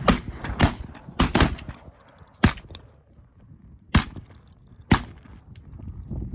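Shotgun blasts at ducks, about seven shots in quick, uneven succession over the first five seconds.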